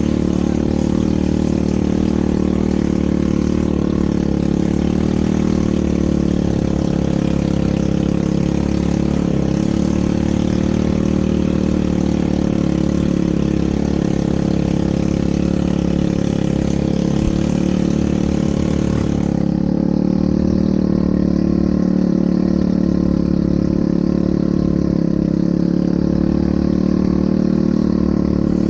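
ATV engine running steadily, with an even low hum and no clear revving. A higher hiss over it drops away about two-thirds of the way through.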